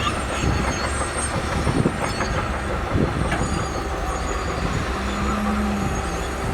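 Crawler bulldozer working, its diesel engine running steadily under irregular clanks and faint high metallic squeals from the moving machinery. A steady low tone joins in about five seconds in.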